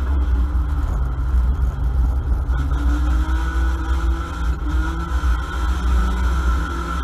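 Ford Mondeo banger-racing car's engine running under load, heard from inside the stripped-out cabin as a heavy low rumble, its pitch rising twice around the middle as it accelerates.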